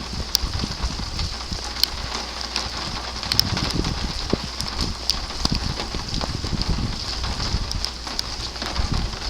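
Heavy rain falling steadily on surfaces in a severe thunderstorm, with scattered sharp drop ticks and irregular low rumbling gusts of wind on the microphone.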